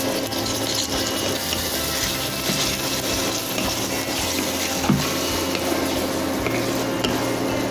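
Chopped tomatoes and onions sizzling steadily in hot oil in a frying pan, stirred with a wooden spatula.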